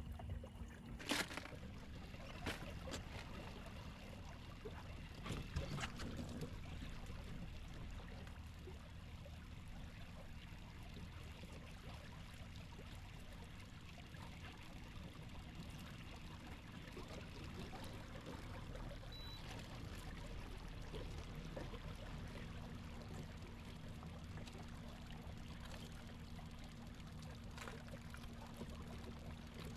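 Faint water trickling and lapping around a kayak, with a few sharp knocks in the first six seconds.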